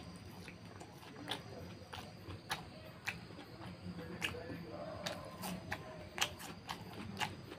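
Close-up eating sounds of a mouthful of rice and pork curry being chewed: irregular wet mouth clicks and smacks, about two a second.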